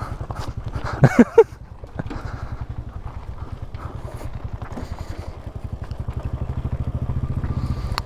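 Royal Enfield single-cylinder motorcycle engine running at low revs, a steady, fast, even low thump from the exhaust; it is quiet for a Royal Enfield. A short, loud, voice-like sound cuts in about a second in.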